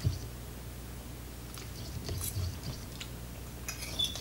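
A person chewing a mouthful of pork lo mein noodles, with a few soft clicks of a metal fork against a ceramic bowl near the end.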